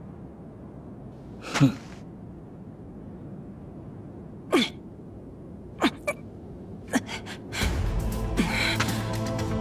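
Animated battle sound effects: a low rumble with four sharp, quickly falling whooshing hits spaced a second or more apart. Near the end a louder, sustained rumble sets in with music over it.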